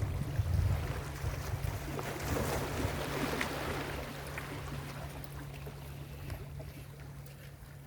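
Ocean waves breaking on a beach: the wash swells about two seconds in and fades away by the end, over a low rumble of wind on the microphone.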